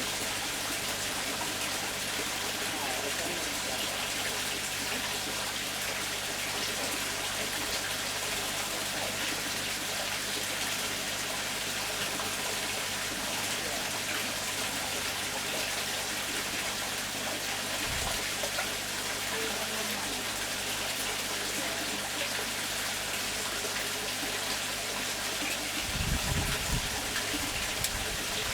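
Steady hiss of splashing water, even throughout, with a short low rumble near the end.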